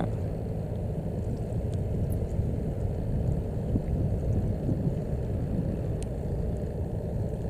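Steady low rumble of a boat engine running.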